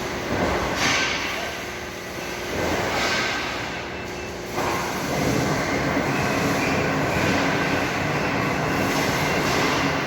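Automatic muffler-pipe cutting machine running a cut cycle on metal pipe, a continuous mechanical rumble with metallic squeal. It surges twice, then steps up at about four and a half seconds to a steady, louder run.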